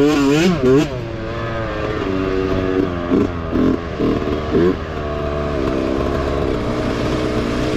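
Mini bike's small engine revving hard, its pitch swinging quickly up and down for the first second, then held fairly steady at high revs with a few brief throttle dips and blips in the middle.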